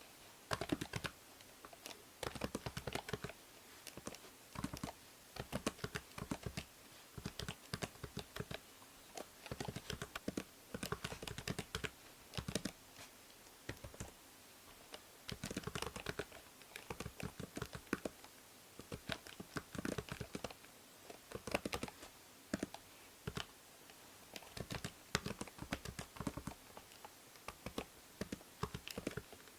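Computer keyboard typing in uneven bursts of rapid key clicks with brief pauses between them. Under it runs a steady hiss from the binaural microphone.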